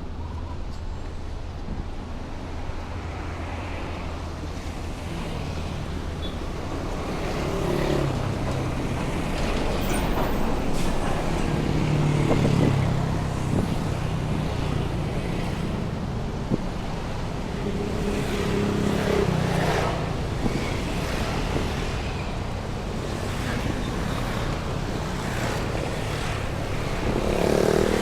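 Heavy city road traffic: vehicle engines running and passing close by, swelling louder several times over a steady traffic hum.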